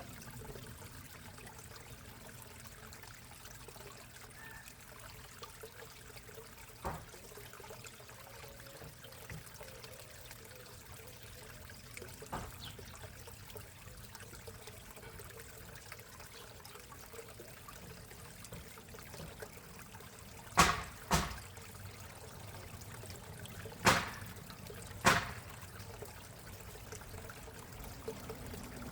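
Backyard koi pond water trickling steadily. Near the end come four sharp knocks in two pairs, louder than the water.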